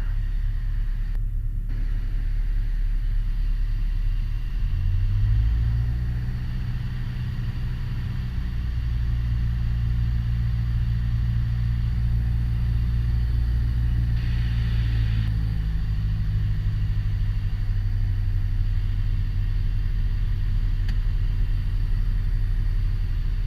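Piper Warrior's four-cylinder Lycoming engine and propeller droning steadily, heard inside the cockpit during the circuit approach. The drone steps up in pitch and loudness about five seconds in.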